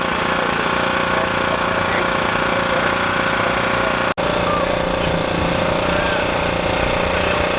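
An engine running steadily close by, with faint voices behind it; the sound drops out for an instant about four seconds in.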